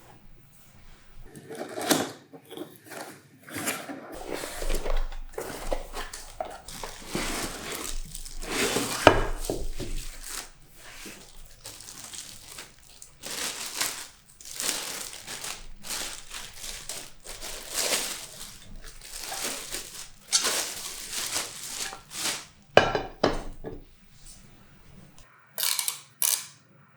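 Packaging crinkling and tearing as a sauté pan is unwrapped, with knocks and clinks of the cast-aluminium pan and its glass lid being handled. The rustling comes in irregular stretches, with two short loud bursts near the end.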